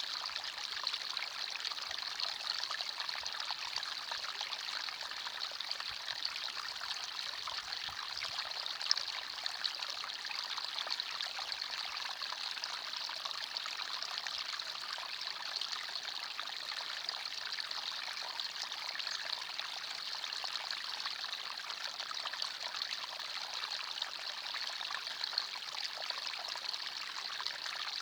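Small forest stream trickling and splashing steadily over stones.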